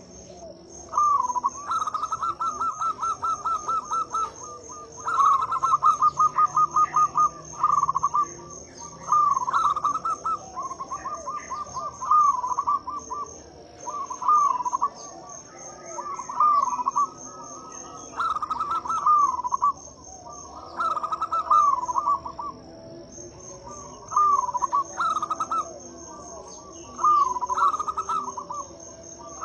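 Zebra dove (perkutut) singing: about a dozen phrases of rapid staccato coos, each one to three seconds long, with short pauses between them. A steady high-pitched insect trill runs behind it.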